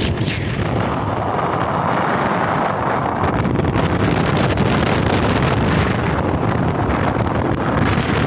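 Wind buffeting the microphone on a moving motorcycle, over steady engine and road noise.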